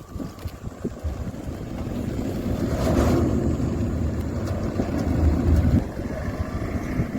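Motorcycle running on the move, with wind buffeting the microphone. It grows louder over the first few seconds, then holds steady.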